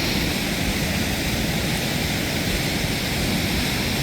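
Steady rush of the flooded Mersey River running high and fast.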